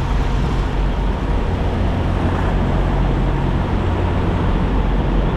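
Semi-truck's diesel engine running steadily, with a low hum and road or air noise around it.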